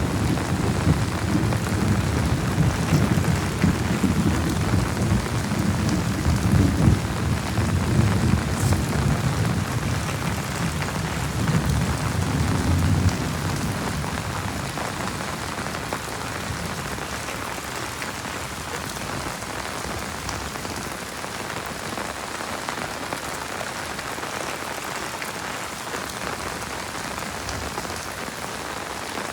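Heavy rain falling steadily, with a deep rumble of thunder through the first half that dies away about halfway through, leaving only the even hiss of the rain.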